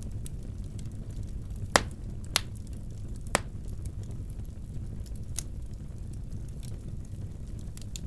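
Wood fire burning in a fireplace: a steady low rumble with scattered faint crackles, and three sharp cracks in the first half (the first loudest), then a softer one.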